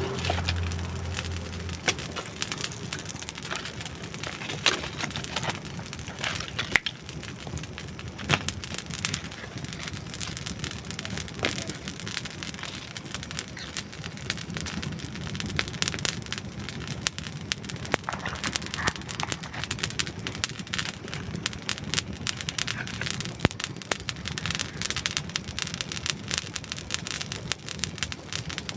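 Campfire of dry wood burning, crackling steadily with frequent irregular sharp pops and snaps. A low rumble at the very start fades out within the first second or two.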